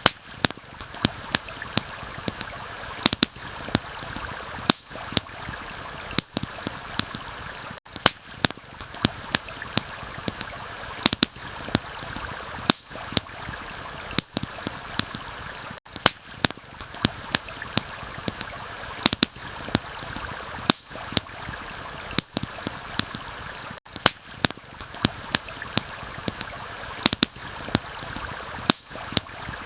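Stream water running steadily, with frequent sharp crackles and pops of a wood campfire scattered through it. There are brief dips in the sound about every eight seconds.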